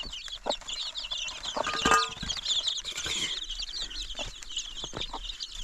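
Chickens clucking over a dense, steady run of short high chirps, with a few short knocks.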